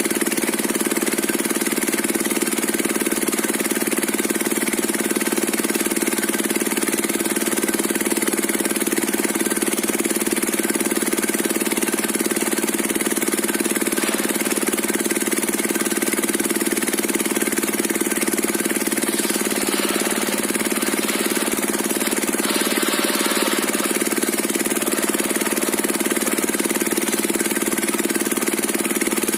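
Diesel engine of a circular-saw log-splitting rig running steadily, with a brief change in its higher sound about two-thirds of the way through.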